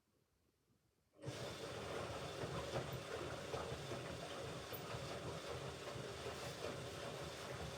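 Hoover Ecologic Computer Washer 1300 washing machine starting a stage of its rinse-and-spin cycle: after near silence it starts suddenly about a second in and runs on steadily, with a low hum under a rushing noise.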